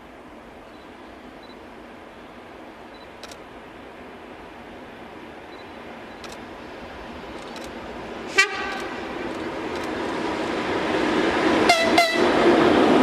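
EP2K electric locomotive with a passenger train approaching, its rumble growing steadily louder. It gives one very short horn toot about two-thirds in and two quick toots near the end.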